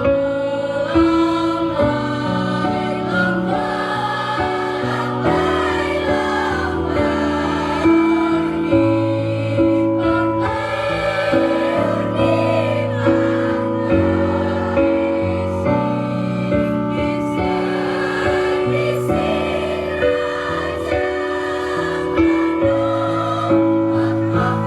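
Student choir singing in parts, several sustained notes held together and moving from chord to chord.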